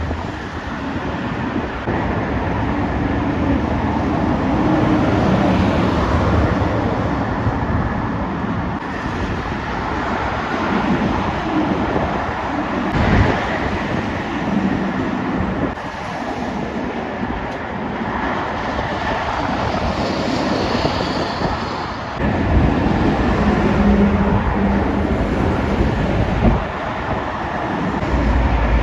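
Heavy trucks passing one after another on a main road, their engine note and tyre noise swelling and fading with each pass.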